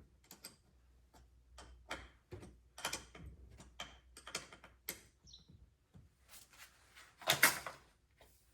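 Tools being handled and set down: a run of short clicks and knocks, with one longer, louder clatter about seven seconds in.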